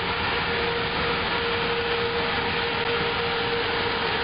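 Steady mechanical drone of a standing Amtrak passenger train: an even hiss with a constant hum note, unchanging throughout.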